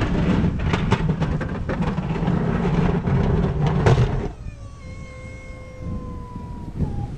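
A vehicle engine running with scattered clicks, cutting off abruptly about four seconds in; a fainter whine then slowly falls in pitch.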